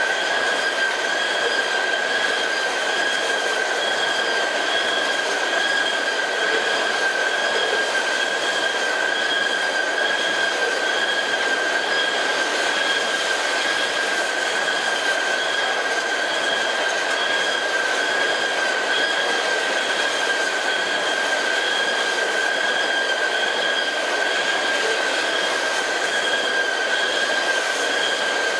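Loaded DOT-111 tank cars of a long crude-oil unit train rolling steadily past on the rails, with a constant high-pitched wheel squeal over the running noise.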